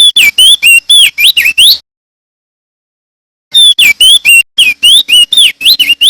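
Male crested white-eye (opior jambul) singing loudly in two fast phrases of sweeping whistled notes, about five a second, with a pause of under two seconds between them.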